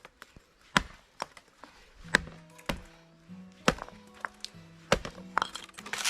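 Axe chopping hard bamboo: a series of sharp, uneven strikes, about one or two a second.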